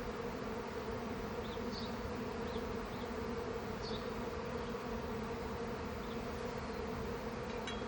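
A swarm of honey bees buzzing in a steady, even hum as the bees gather on the box they are being hived into.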